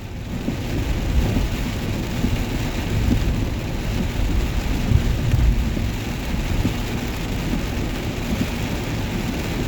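Heavy rain falling in a steady downpour, with a low rumble running underneath.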